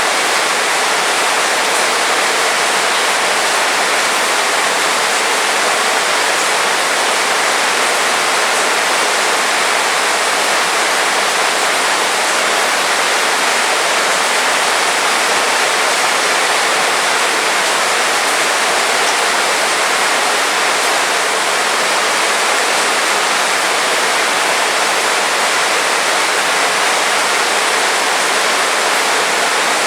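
Heavy rain falling, a dense steady hiss with no thunder or other distinct sounds.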